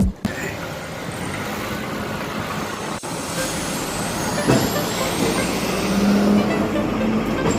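City road traffic noise, with the engines of passing trucks or buses. A sharp click about three seconds in and a short steady engine hum near the end.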